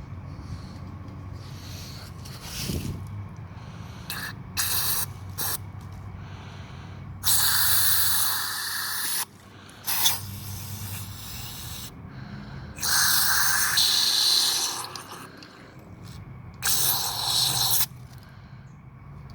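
Aerosol cleaner spraying in bursts into a Chevy TBI throttle body that is being cleaned out. There are several short hisses and three longer sprays of one to two seconds each.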